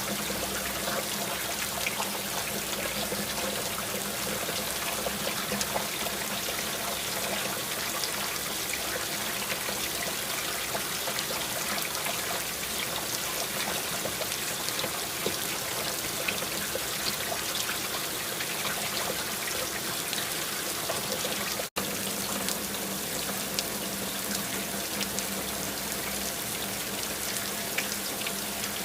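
Steady rain: a dense, even hiss of falling water dotted with many small drop hits, cutting out for an instant about three quarters of the way through.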